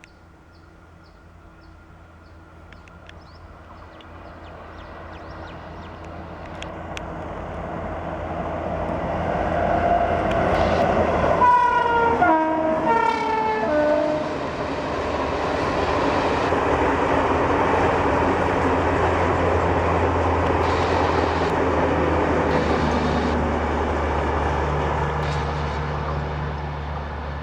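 Express train approaching at speed and passing close by: the locomotive's horn sounds two short blasts about halfway through as it nears, then the steady rush and rumble of the coaches going past.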